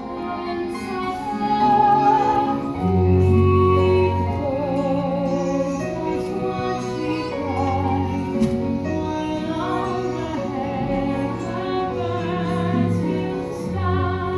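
A woman singing a slow, sustained melody with vibrato over soft instrumental accompaniment.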